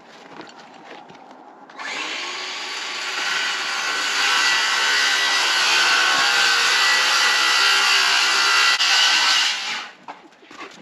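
Electric power saw starting up with a rising whine, then running steadily while it cuts through wood for about eight seconds before stopping abruptly.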